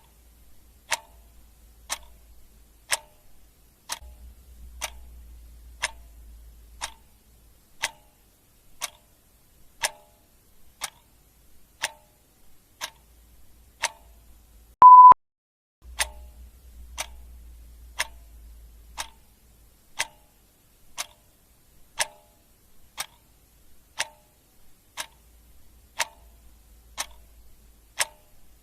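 Clock ticking evenly once a second, with a single short, loud, high beep about halfway through in place of one tick.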